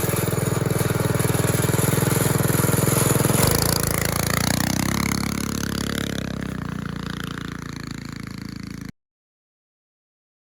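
Small gasoline engine of a homebrew ride-on car running. About three and a half seconds in its note changes and then grows fainter, and the sound cuts off abruptly near the end.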